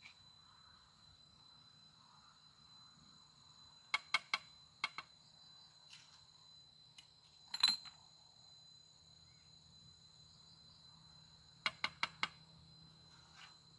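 Insects chirring as a steady high-pitched drone, broken by a few short sharp clicks or taps in small clusters, the loudest about two-thirds of the way through.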